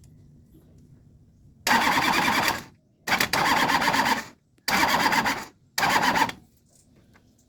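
Starter motor cranking a Toyota L-series diesel engine in four short bursts of about a second each, the engine turning over without catching and running between them.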